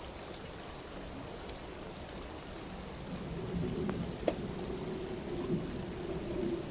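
Steady rush of running water, like rain or a trickling stream. From about halfway a steady low whine joins it, typical of a 1/10 scale RC crawler's electric motor and gears working, and there is one sharp click about four seconds in.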